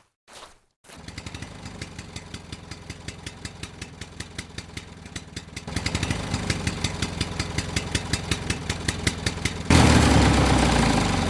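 Small engine running with a rapid, even ticking beat. It grows louder and steps up in level twice, sharply about a second before the end.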